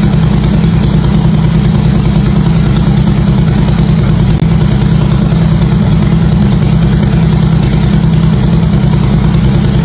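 Harley-Davidson V-twin motorcycle engine idling steadily through its exhaust: a loud, even, low-pitched rumble with no revving.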